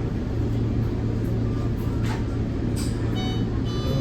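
Steady low hum and rumble inside the cabin of a Nippon Sharyo diesel multiple unit train as it runs.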